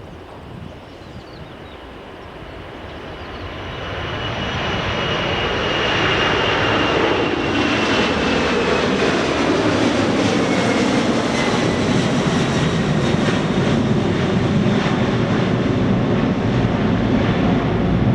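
Jet airliner engines on a takeoff run. The engine noise grows louder over about four seconds, then holds loud and steady, with a high whine that slowly drops in pitch.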